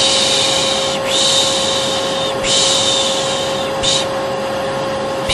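A person's rhythmic soothing shushing ('shh, shh'), mostly long shushes of about a second each with a short one near the end, over the steady running drone and hum of a vacuum cleaner motor: the 'piş piş' and vacuum noise used to lull a baby to sleep.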